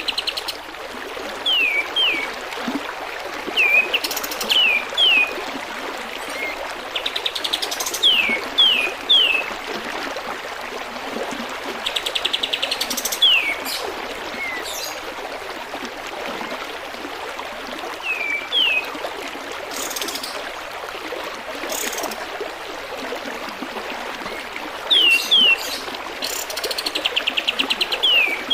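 Kapas tembak bird singing: short whistled notes sliding downward, in pairs and threes, alternating with quick buzzy rattling trills and sharp clicks, repeated every few seconds. A steady trickle of running water sounds underneath.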